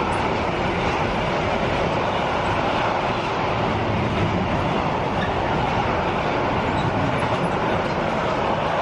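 A train running past on the line, a steady, even rail noise with no breaks.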